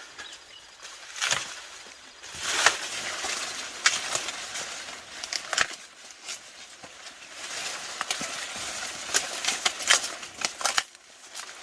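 Irregular rustling and crackling with scattered sharp snaps and clicks, coming in bouts a second or two long.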